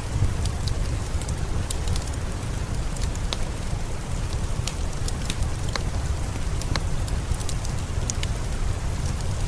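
Steady rain with a deep rumble, mixed with scattered sharp crackles of a wood fire in a fireplace.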